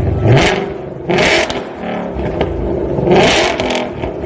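Ford Mustang Shelby GT500's supercharged V8 revved in three quick blips, each rising in pitch and falling back to idle, with a harsh rasp at the top of each rev.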